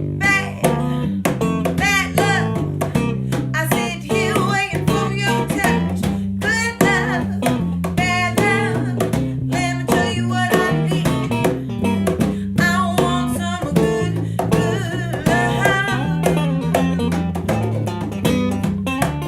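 Rock band playing live: guitars over a moving bass line, with a singer.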